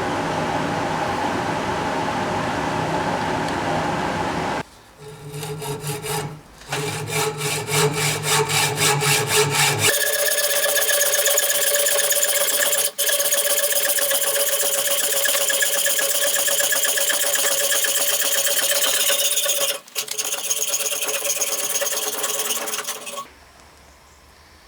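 Woodworking tools cutting and working wood in separate runs. First a steady machine run, then rhythmic strokes about three a second, then a long, higher-pitched machine run that breaks off briefly twice and stops near the end.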